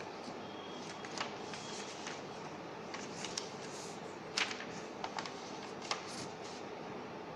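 A sheet of paper being handled and folded, with short crisp crackles of creasing and rustling at irregular moments, the sharpest about halfway through, over a steady hiss.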